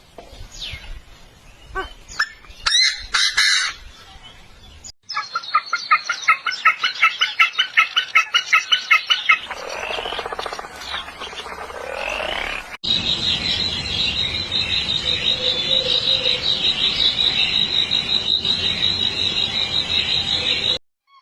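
Bird calls in three cut-together stretches: scattered chirps and whistles, then a fast run of repeated notes, then a long, steady, high-pitched trill.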